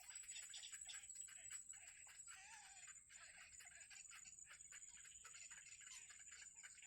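Faint, rapid, overlapping cheeping of nestling birds in the nest, over a steady high-pitched whine.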